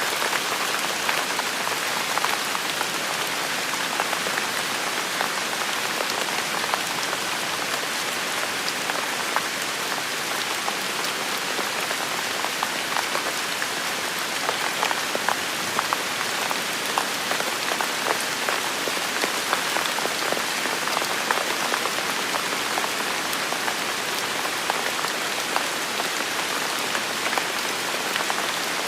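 Steady rain falling on hard surfaces, with many close drops ticking and splatting individually over the even hiss of the downpour.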